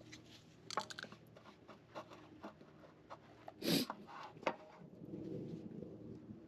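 Light clicks and knocks of tools and parts being handled, with one louder knock a little past halfway and some rustling after it.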